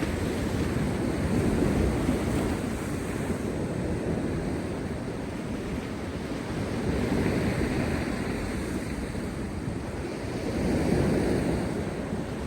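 Heavy post-storm surf breaking on rocks: a continuous wash of churning water that surges three times, near the start, in the middle and near the end.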